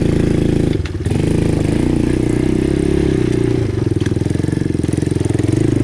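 ATV engine running steadily, with a brief drop in level about a second in before it picks back up.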